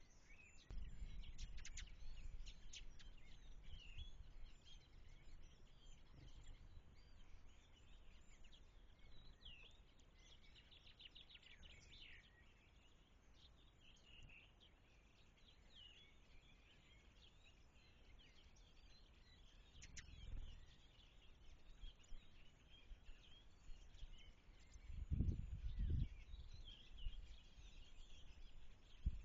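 Birds chirping faintly with many short scattered calls, over low rumbling background noise, with two louder low thumps near the end.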